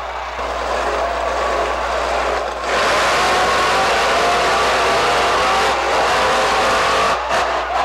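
Supercharged monster truck engines running at full throttle on a race run, with a steady supercharger whine over the engine noise. It gets much louder about two and a half seconds in and eases off near the end.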